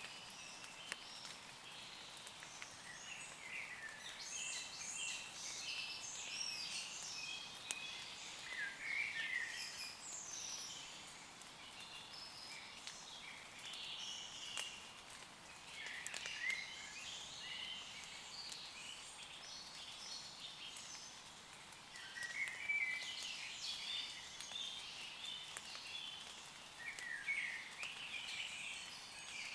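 Several songbirds chirping and trilling, their calls coming in clusters with short lulls between. Underneath, a light patter of rain on leaves with scattered drips.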